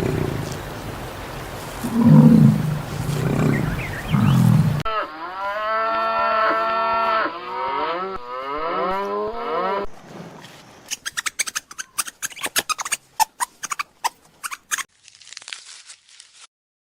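A run of different animal sounds cut one after another: low rough calls for about five seconds, then a long wavering moo-like call for about five seconds, then rapid sharp crunching clicks near the end.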